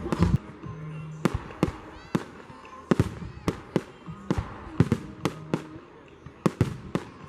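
Fireworks display: a rapid, irregular series of sharp bangs from bursting aerial shells, about two a second.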